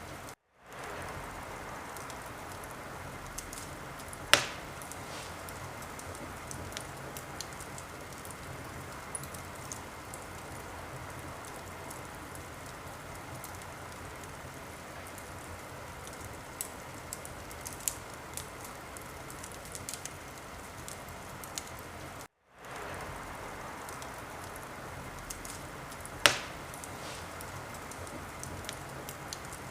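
Wood fire crackling in a fireplace: a steady hiss with scattered small crackles, and a sharp pop about four seconds in and again near the end. The sound cuts out briefly twice, just after the start and about two-thirds of the way through.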